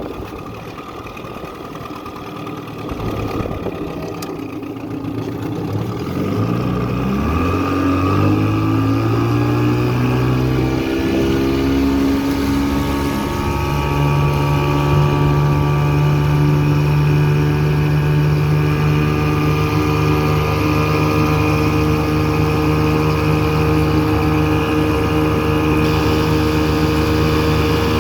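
1984 Evinrude 6 hp two-cylinder two-stroke outboard motor pushing a small boat. It runs low for the first few seconds, then is throttled up: its pitch rises over several seconds and settles into a steady full-throttle run from about halfway through.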